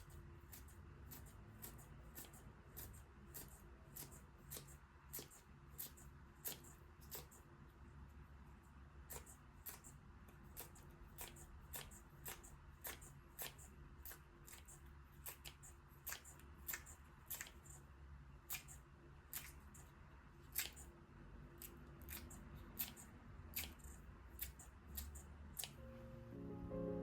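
Faint, sharp clicks repeating about twice a second: food being cut in the kitchen during potato salad preparation.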